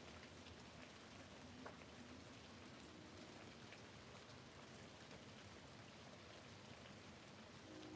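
Faint steady rain, with many small drop ticks on a window pane and one slightly sharper tick about two seconds in.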